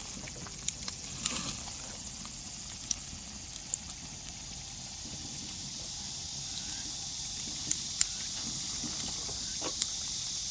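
Pork grilling over a pine and oak wood fire: scattered sharp crackles and pops over a steady high hiss that grows slowly louder.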